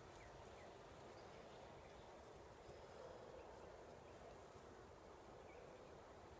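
Faint, steady hum of honeybees from an opened hive, with a few faint, short bird chirps.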